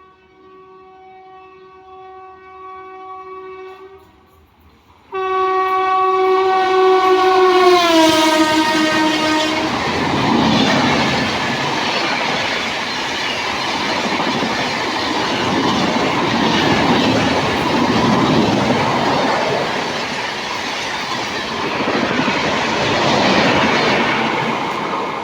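Indian Railways locomotive horn sounding two long blasts, the second louder, its pitch falling as the locomotive passes. Then the train runs by, rumbling with wheels clattering over the rails.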